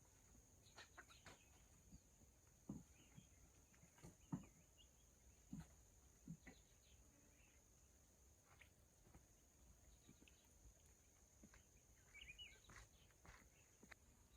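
Faint scattered taps and knocks over a steady high hiss, with a short chirping bird-like call about twelve seconds in.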